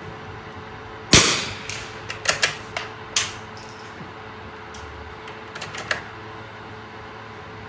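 A single .22 rimfire shot from a Winchester 52C target rifle about a second in, followed by a quick series of metallic clicks as the bolt is worked, and a few more faint clicks near the end.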